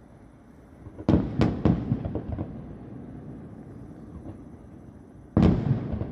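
Fireworks shells bursting about a kilometre away: a quick run of three bangs about a second in, then one loud bang near the end, each trailing off in a rolling echo.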